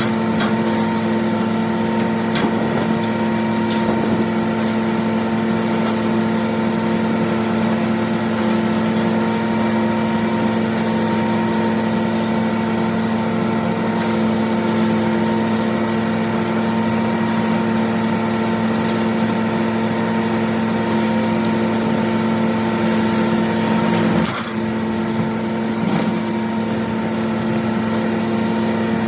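John Deere 4230's six-cylinder diesel running steadily under load on the PTO, driving a New Holland 355 grinder-mixer's hammermill as it grinds corn: a continuous even hum with a brief dip late on.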